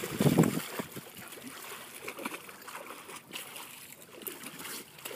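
Pond water trickling and lightly splashing around a dog diving for rocks, faint and uneven, after a short voice at the very start.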